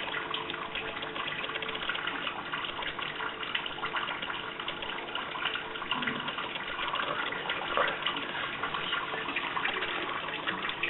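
Water running steadily with a fine crackling hiss.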